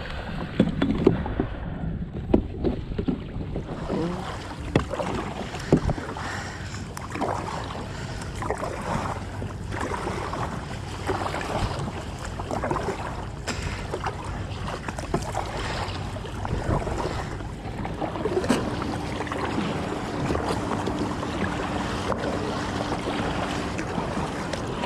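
Water sloshing against a kayak hull, with wind on the microphone and a few sharp knocks in the first several seconds. A faint low steady hum joins near the end.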